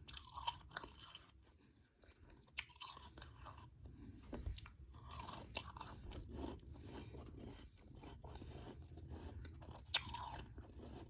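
A person biting and chewing frozen powdery ice, freezer frost, with some harder chunks, in repeated crunches close to the microphone. There is a short lull about two seconds in and a sharp crunch near the end.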